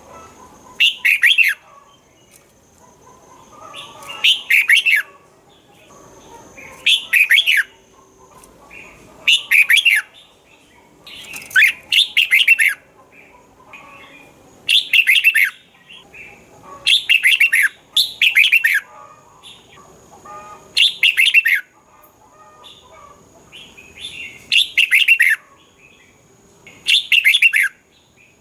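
Red-whiskered bulbul singing short, bright, warbled phrases, one every one and a half to two seconds.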